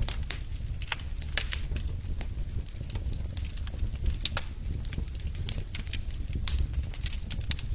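Wood fire burning in a fireplace: a low steady rumble of flame under many irregular sharp crackles and pops from the burning logs.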